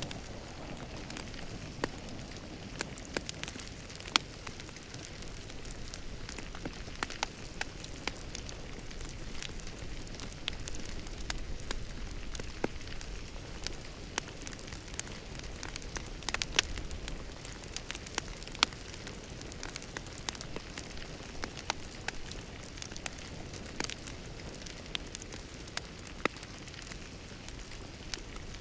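Wood fire crackling in a fireplace: a steady low hiss broken by frequent sharp pops, a few of them much louder than the rest.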